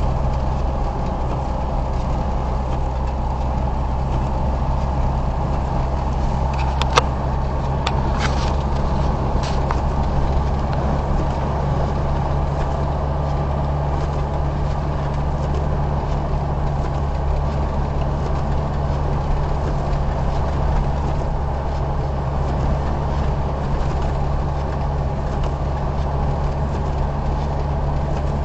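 Car's engine and road noise heard from inside the cabin while driving, a steady low hum. A sharp click about seven seconds in, followed by a few fainter ticks.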